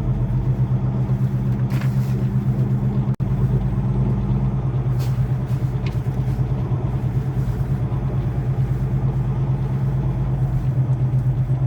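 Semi truck's diesel engine running steadily at low speed with an even pulsing drone. The sound cuts out for an instant about three seconds in.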